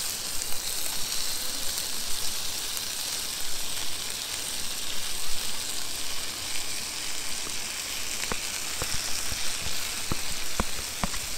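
Steady sizzling of meat frying in oil in a camping pot as rice is scraped in from a bowl and stirred. Sharp clicks of a spoon against the pot come in from about two-thirds of the way through.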